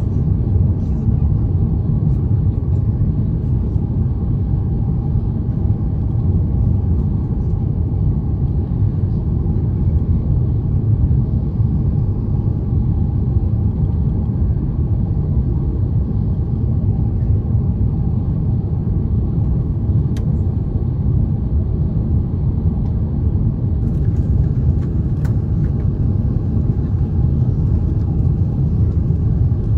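Steady low rumble of an Airbus A350-900 airliner heard from inside the passenger cabin, the noise of its Rolls-Royce Trent XWB engines and the airflow, with a few faint clicks about two-thirds of the way through.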